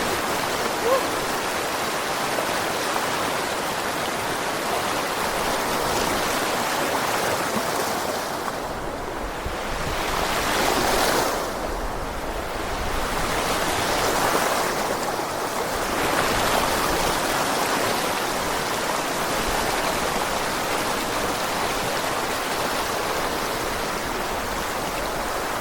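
Rushing water of a river or stream, a steady loud rush; its hiss dims a little twice in the middle.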